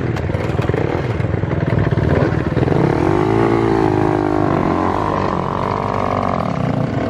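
Dirt bike engines running, with one revving up and back down about three seconds in.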